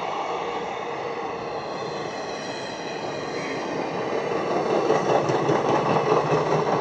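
Indian Railways express train passing at speed on the track, its noise growing louder about halfway through, with rapid wheel clicks over the rails.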